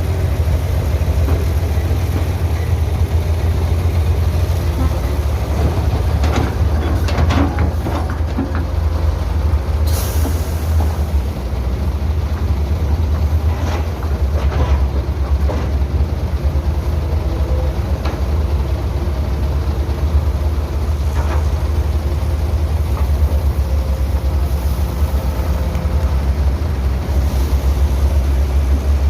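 Heavy diesel construction machinery running steadily with a deep low rumble. A few knocks come about seven seconds in, and a short sharp hiss follows about ten seconds in.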